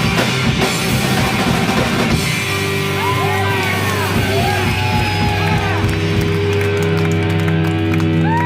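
Live rock band playing loudly: busy drumming for about the first two seconds, then a held, ringing chord with sliding high notes over it.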